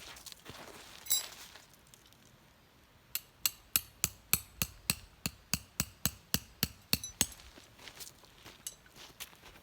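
A single ringing clink about a second in, then a run of about fourteen sharp, evenly spaced knocks, roughly three a second, lasting about four seconds.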